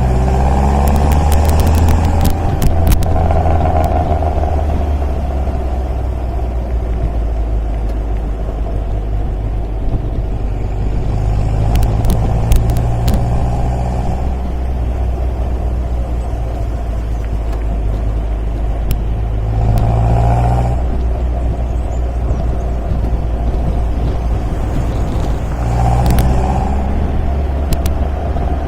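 MG MGA roadster's four-cylinder engine running steadily on the road, its note swelling and easing a few times as the throttle opens and closes.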